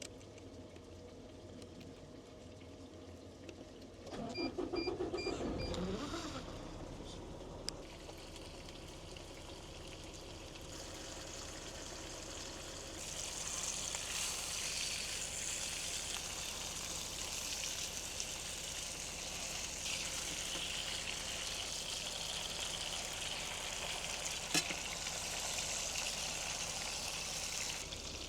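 A semi truck's engine being started again about four seconds in, after it shut itself off at idle. From about thirteen seconds a steady high sizzle follows, steaks frying in the pan, with a single sharp click near the end.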